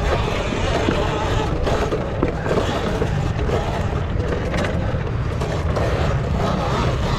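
Dirt bike riding over rough trail: a steady rush of noise with scattered knocks and rattles.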